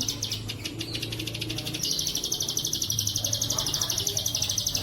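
Bren cililin cicada calling: a high, fast rasping pulse that eases off a moment in and comes back strongly about two seconds in, over a steady low hum.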